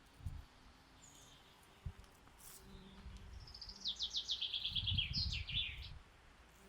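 A songbird sings one phrase: a fast run of repeated notes stepping down in pitch, ending in a short higher flourish. A few low rumbles sit underneath.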